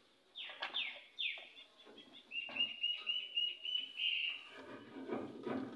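A bird calling: three quick falling whistles, then a rapid run of short high notes, about three a second, ending in one longer note.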